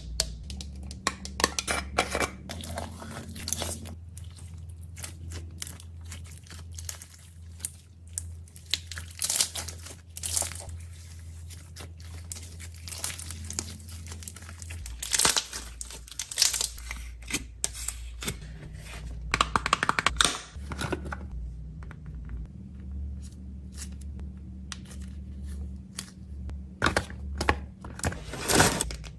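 Snack packaging crinkling and being torn open, with many sharp rustles, taps and clicks as items are handled; a low steady hum sits underneath.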